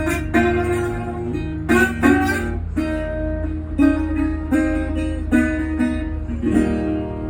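Dobro resonator guitar playing a slow blues, plucked notes and chords struck about once or twice a second and left to ring.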